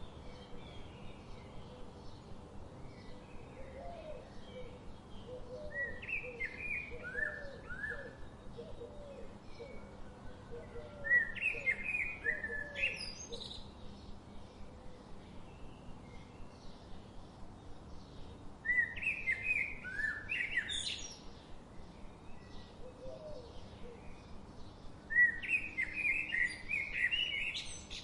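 A songbird singing the same short phrase four times, roughly every six to seven seconds: each phrase is a run of falling notes that ends in a higher flourish. Between the songs there is a faint steady background hiss, and softer, lower chirping repeats during the first half.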